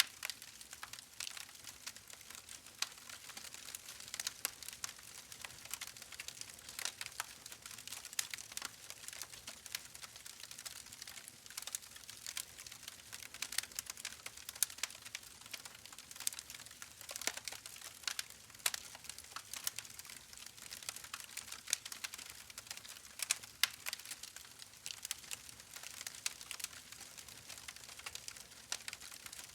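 Steady soft crackling: a dense scatter of small sharp clicks over a faint hiss, with no speech or melody.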